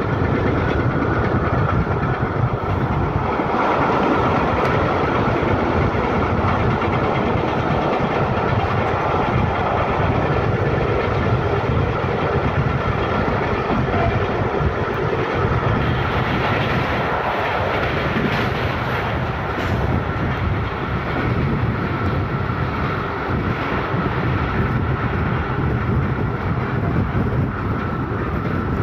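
Historic Centoporte passenger train running along the line, heard from aboard: a steady rumble of steel wheels on rail with some clickety-clack from the track.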